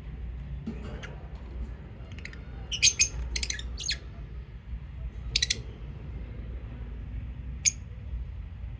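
Lovebirds giving short, high chirps: a quick cluster of calls about three seconds in, another about five and a half seconds in, and a single one near the end, over a low steady rumble.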